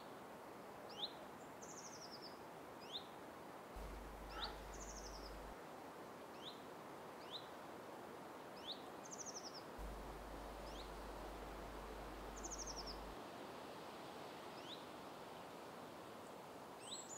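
Faint birdsong over a soft steady hiss of outdoor background noise. A bird repeats the same short phrase about every three to four seconds: a couple of quick rising chirps and a brief buzzy trill.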